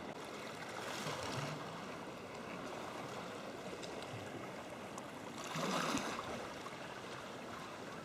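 Sea water lapping and washing, with a louder surge of water about five and a half seconds in.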